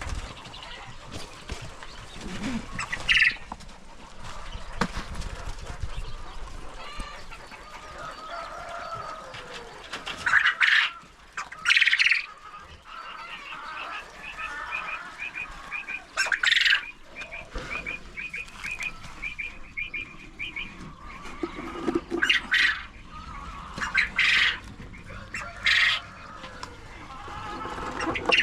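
Farmyard poultry calling: loud squawks every few seconds, with a rapid run of repeated chirps for several seconds in the middle.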